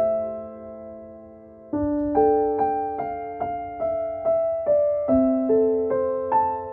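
Soft, slow background piano music: gentle notes struck one after another, each ringing and fading, with a held chord that dies away before a new phrase begins about two seconds in.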